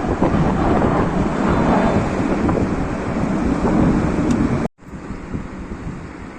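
Loud rumble of jet aircraft at an air show, with wind on the microphone. It cuts out suddenly about three-quarters of the way through, and a quieter rumble follows.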